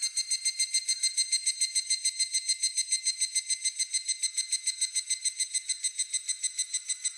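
Higurashi (evening cicada, Tanna japonensis) singing its 'kana-kana' call: a steady run of rapid, clear, whistle-like pulses, about eight a second.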